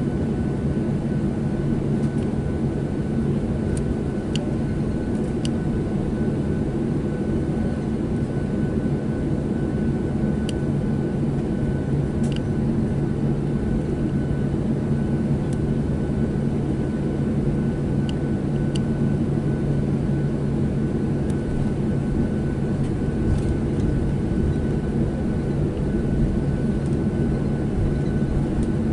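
Steady cabin drone inside a Boeing 737-700 with its CFM56-7B jet engines at idle, a low hum running under it along with a faint thin high tone. A few faint ticks and rattles from the cabin break in now and then.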